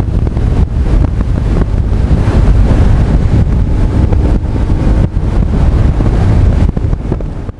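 Heavy wind buffeting on the action camera's microphone while riding a Honda CB1300 Super Bol d'Or at speed, with the bike's inline-four engine running underneath. The sound drops away sharply at the very end.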